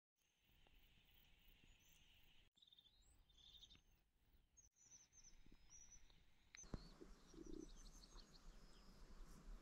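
Faint birdsong: small birds chirping and calling in short high notes, with a quick run of repeated chirps near the end and a single soft tick about two-thirds in.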